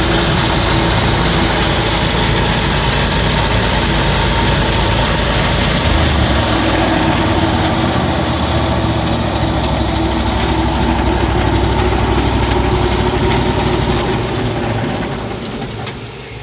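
Honda gasoline engine on an Edco SS20 20-inch walk-behind concrete saw, running steadily. It falls off to a quieter, lower running over the last couple of seconds.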